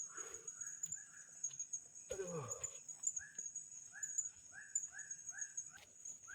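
Forest insects droning at a steady high pitch, while an animal gives a short call over and over, about twice a second, from about three seconds in. A brief falling sound comes about two seconds in.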